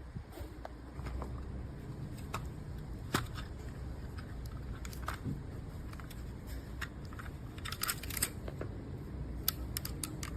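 Scattered light clicks and taps of objects being handled, with a small cluster of clicks about eight seconds in, over a low steady hum.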